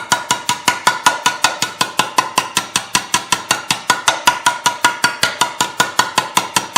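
Rapid, even hammering with the flat face of a metal-shaping hammer on sheet metal over a delrin plastic shrinking stump, about six blows a second, each with a short metallic ring. The blows flatten ripples along the stretched edge to shrink it.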